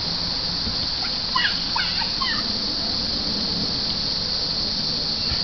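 A bird gives a few quick rising chirps between about one and two and a half seconds in, over a steady high hiss.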